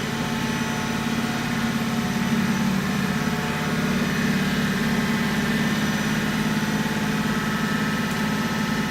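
Daewoo Puma 8S CNC turning center running, a steady machine hum with a whine of several held tones above it.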